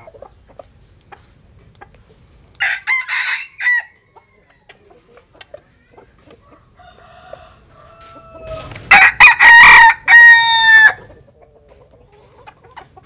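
Japanese-Cuban bantam rooster crowing loudly once, a call of about two seconds that starts about nine seconds in. A shorter harsh call comes about three seconds in, with scattered small clicks and soft clucks between.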